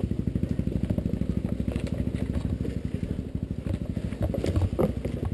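Dirt bike engine running at low revs, a steady, even putter of firing strokes.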